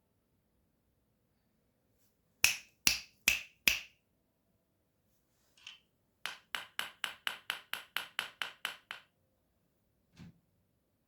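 Hammer-like knocking: four loud sharp strikes in a row, then a faster run of about a dozen lighter strikes, and one soft knock near the end.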